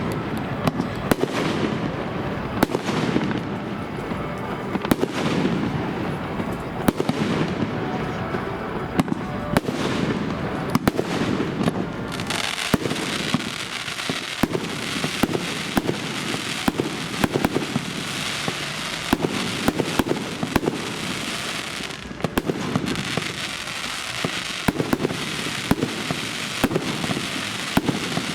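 Fireworks display: a steady run of sharp bangs from bursting shells, joined about twelve seconds in by a dense crackling hiss that lasts through the rest.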